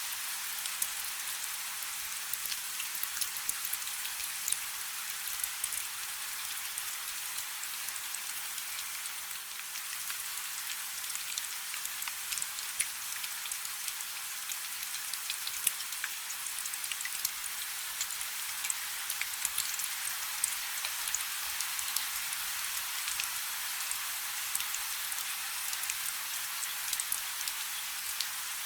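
Light rain falling steadily: an even hiss, with many small drops ticking on a surface.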